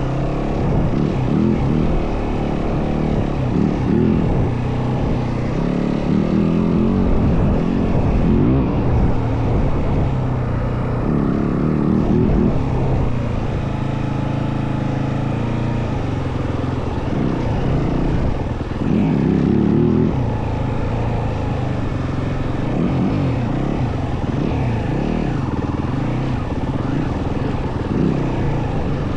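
Yamaha WR450F single-cylinder four-stroke dirt bike engine running under way, its note rising and falling with the throttle.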